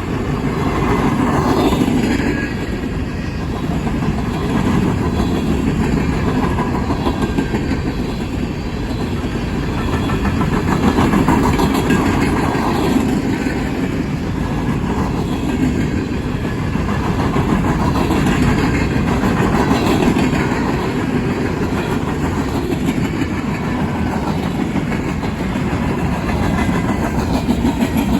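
Freight train of coal cars rolling past, steel wheels rumbling and clacking over the rail joints in a steady run that swells and eases every few seconds.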